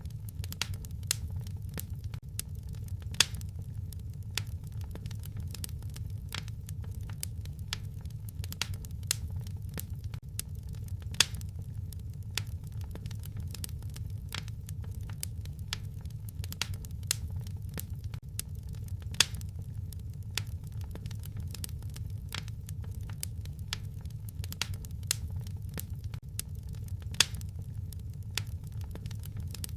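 Wood fire crackling in a fireplace: irregular sharp snaps and pops, a few louder ones every several seconds, over a steady low rumble.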